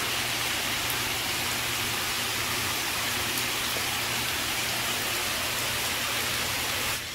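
Steady rain falling on trees and a leaf-covered forest floor, an even, unbroken hiss.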